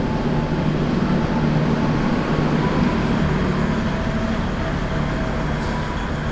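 Steady rumble and hum inside a moving passenger train carriage, with a few faint steady tones over it.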